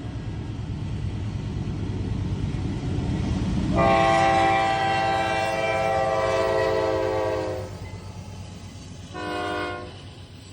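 Diesel freight locomotive's multi-chime air horn sounding at a grade crossing: one long blast about four seconds in and a short one near the end, over the steady rumble of the train.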